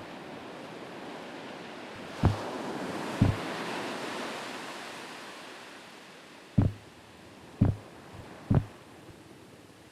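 A rushing noise like wind or surf swells about two seconds in and slowly fades, with five short, deep thumps.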